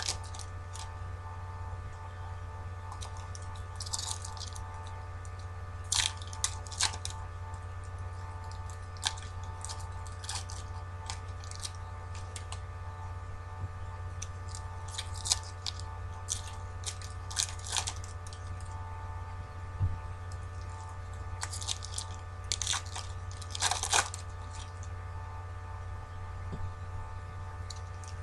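Foil trading-card packs and cards being handled: short scattered crinkles and rustles, some in quick clusters, over a steady electrical hum.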